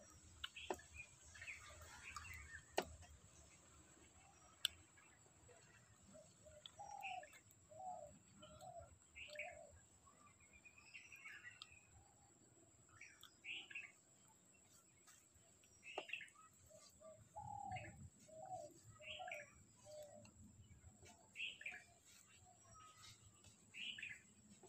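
Faint birdsong: scattered short high chirps, and twice a run of four or five short, lower notes in quick succession. A steady high-pitched hiss runs underneath.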